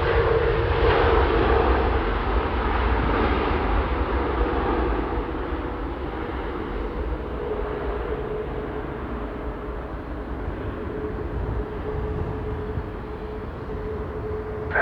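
Airbus A330neo's Rolls-Royce Trent 7000 jet engines, rolling out on the runway after landing: a broad engine rumble with a steady whine that slowly fades.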